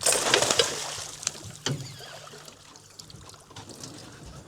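A netted gar splashing at the surface, loudest in the first second, then water trickling and dripping off the net, with a few small knocks.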